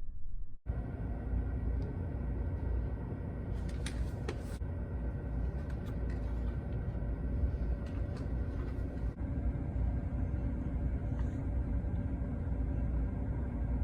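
Car running, with a steady low rumble of engine and road noise and a faint hum.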